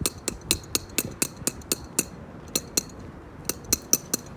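A quick, uneven series of sharp metallic taps or clicks, about four a second, with a couple of short pauses.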